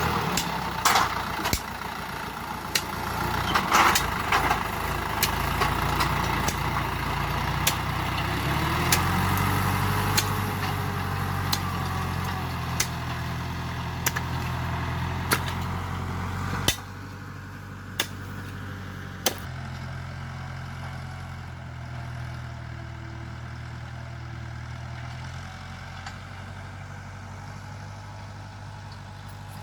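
Tractor engine running steadily, with sharp clicks or knocks about once a second. About 17 seconds in the sound drops abruptly to a quieter, steady engine hum with only a few more clicks.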